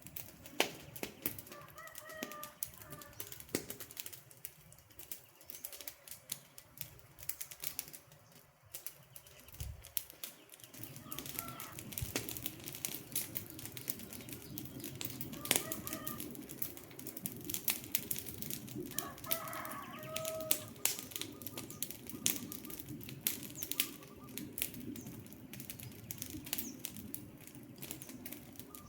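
Wood campfire crackling, with many sharp pops and snaps over a low rush of flames that grows louder about ten seconds in. A bird calls briefly a few times: near the start, around eleven and fifteen seconds, and twice around twenty seconds.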